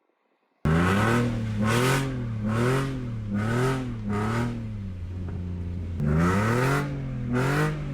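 BMW E46 M3's straight-six engine revved repeatedly, its pitch rising and falling about six times in quick succession, then after a short steady stretch rising twice more. It cuts in suddenly after a brief silence.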